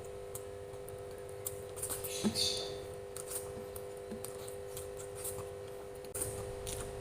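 Close-miked eating sounds: scattered soft clicks and wet mouth smacks from someone chewing food, the strongest about two seconds in, over a steady low electrical hum.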